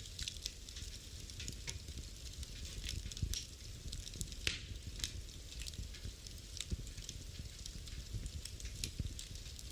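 Wood fire burning in a fireplace: irregular crackles and pops over a steady low hiss and rumble, with one sharper pop about halfway through.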